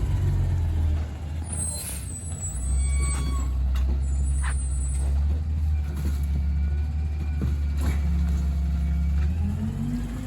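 Kenworth rear-loader garbage truck's diesel engine running steadily while its Heil packer compacts bulk trash, with brief high-pitched squeals and a few knocks in the first half.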